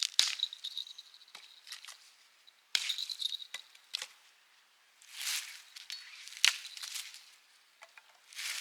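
A small bear bell jingling in two short spells near the start, with a high metallic ring. Between and after them come irregular rustling and crunching handling noises, the loudest about halfway through and near the end.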